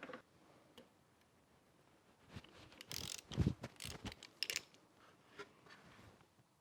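A wrench working a bolt out of the clutch release pivot: a few faint, irregular metallic clicks and clanks.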